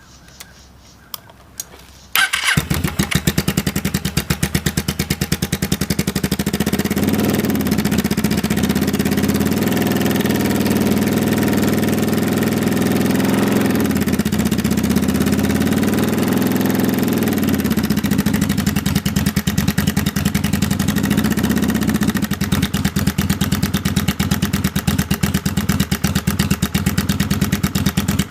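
1995 Kawasaki Vulcan 750's V-twin engine: two clicks, then it starts about two seconds in and runs, revved up and back down twice before settling to idle. It keeps making an unidentified noise that new manual cam chain tensioners have not cured.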